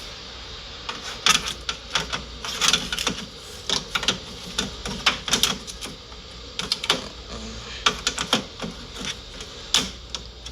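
Irregular sharp clicks and taps, some in quick clusters, as the running Keystone air cooler's plastic housing is handled. A steady low hum from the unit runs underneath.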